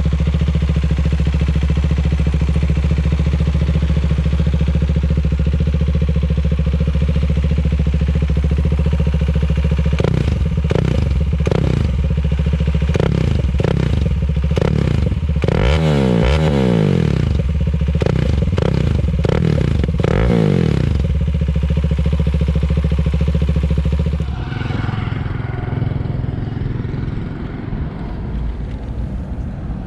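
KTM Duke 390's single-cylinder engine breathing through a MIVV GP carbon full-system exhaust, idling steadily, then blipped repeatedly with quick throttle stabs, the revs falling back after each. Near the end the sound drops suddenly to a quieter, rougher engine noise.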